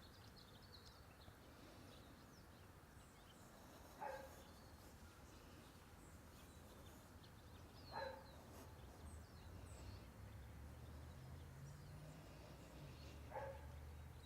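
A dog barking faintly three times, about four seconds apart, with a few faint bird chirps and a low steady rumble in the second half.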